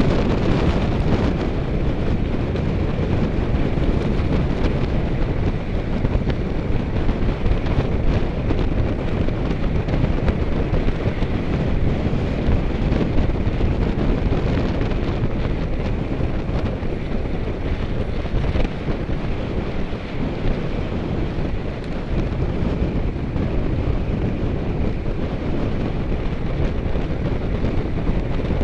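Steady wind rushing over the microphone of a camera carried on a bicycle at speed, heavy in the low end.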